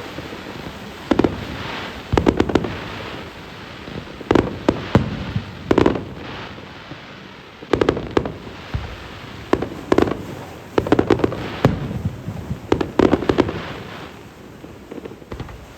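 Aerial fireworks shells bursting in quick clusters of sharp bangs, each followed by a short rumbling echo, with a few quieter crackles; the bursts thin out toward the end.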